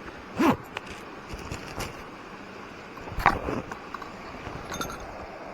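Mountain stream rushing steadily, with a few short knocks and scrapes from handling, the loudest about half a second and about three seconds in.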